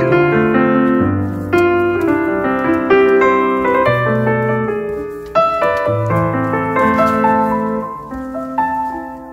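Background piano music: a slow melody played over held low notes.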